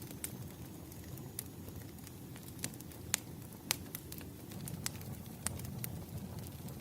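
Wood fire crackling: irregular sharp pops and snaps, two louder ones about three seconds in, over a low steady rumble of the flames.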